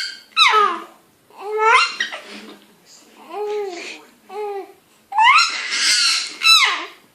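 A 12-week-old baby shouting in short, high-pitched squeals, about six in a row with short gaps between them; the loudest and highest come near the end. The baby is playing with a newly found high-pitched noise.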